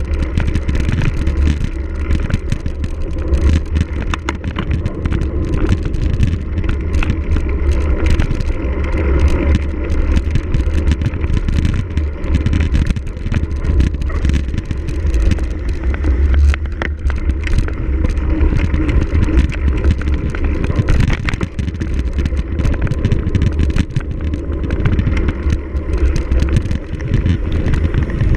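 Cyclocross bike ridden hard over rough ground, with heavy wind rumble on the onboard camera's microphone and constant rattling and clicking from the bike.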